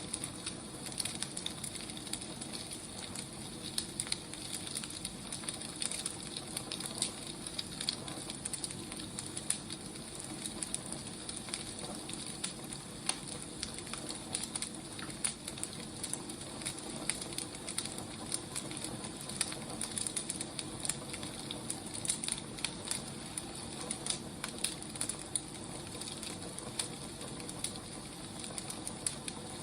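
Wood fire burning: a steady hiss dotted with frequent, irregular crackles and pops.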